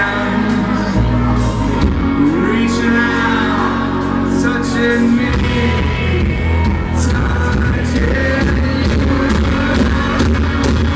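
Live country band playing loud in a hall, with drums, bass guitar and a singing voice. It is heard through a distorted audience recording.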